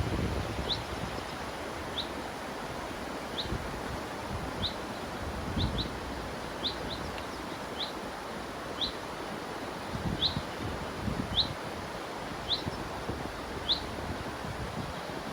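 A bird repeating a single short, high chirp about once a second over the steady rush of a river, with a few low gusts of wind on the microphone.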